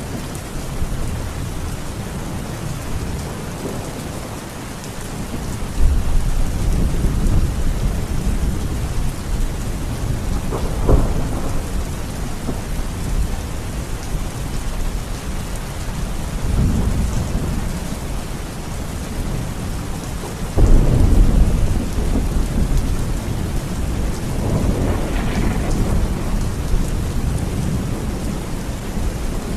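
Steady heavy rain with thunder rumbling over it several times; the loudest roll of thunder comes about two-thirds of the way through.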